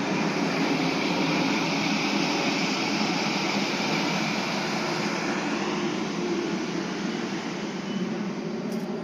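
South Western Railway Class 450 Siemens Desiro electric multiple unit in the station: a steady rumble and hum, with a high whine that fades out about five or six seconds in.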